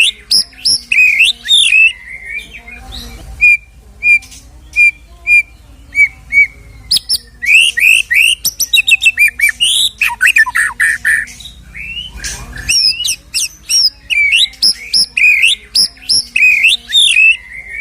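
White-rumped shama (murai batu) singing a loud, varied song full of mimicked phrases. Quick rising notes give way to a run of short clear whistles at about two a second, then a rapid chattering stretch in the middle, and the quick phrases return near the end.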